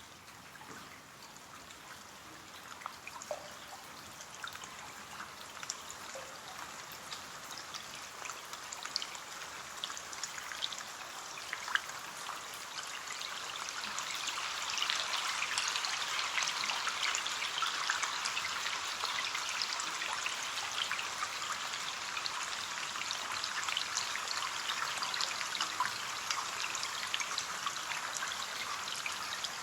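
Rain falling on a window, with many separate drops heard over a steady hiss; the rain grows heavier about halfway through.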